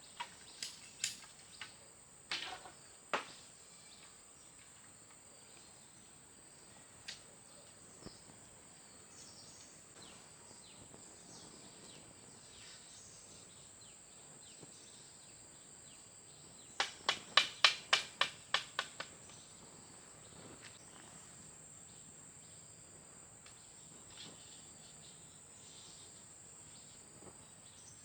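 Steady high-pitched drone of insects, typical of crickets, with a few sharp clicks in the first seconds and a quick run of about ten sharp clicks a little past the middle.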